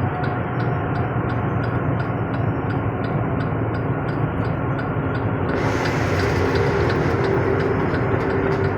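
A truck driving on a highway: a steady engine and road rumble. About halfway through, a hiss of tyres and wind grows louder and an engine tone comes up.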